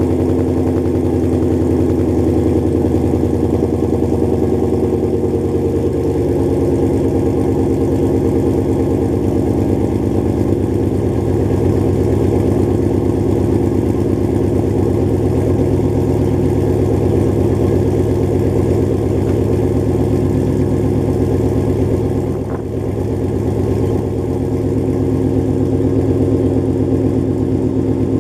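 2015 Ford Mustang GT's 5.0-litre Coyote V8 idling through Stainless Works headers and exhaust, a steady, loud burble. The idle settles slightly lower about six seconds in.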